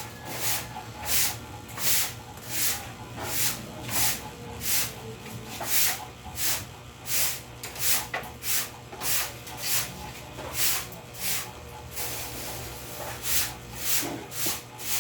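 Rhythmic scraping strokes, about one and a half to two a second, pausing briefly near the end.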